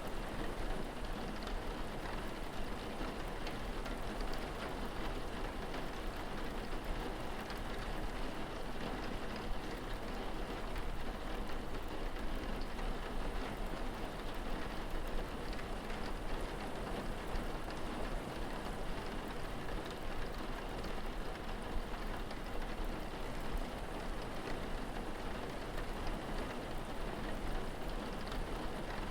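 Steady rain falling, an even continuous patter with a low hum beneath it.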